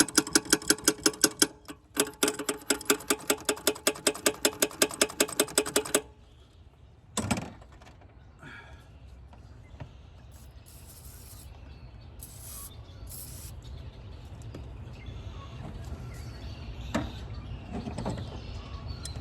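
Ratchet wrench clicking rapidly, about five strokes a second for several seconds, with a brief pause, while working a seized bolt on a 2001 Ford F-150's intake; a single sharp clank follows about seven seconds in.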